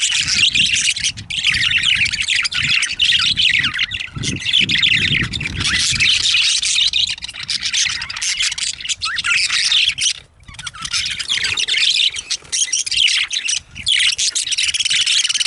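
Budgerigars chattering without a break, a dense mix of fast warbling chirps and squawks, with a low rumbling underneath in the first half.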